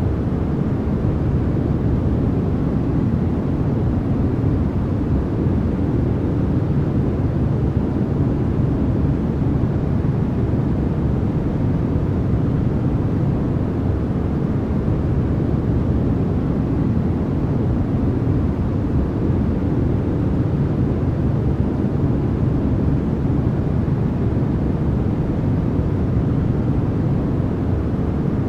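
Continuous sleep-noise track: a steady, even hiss with most of its weight in the low range, deeper than true white noise, with no changes or events.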